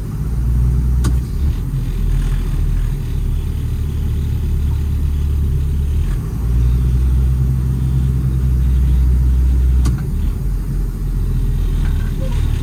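Cummins 5.9 ISB inline-six turbo diesel in a 2007 Ford F-750 running under way, heard from inside the cab as a low drone. Its pitch steps a few times, about a second and a half in, around six seconds and again near ten seconds.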